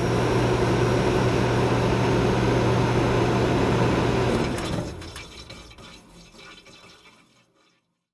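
Airliner cabin noise: a steady rushing drone with a low engine hum, fading out about five seconds in.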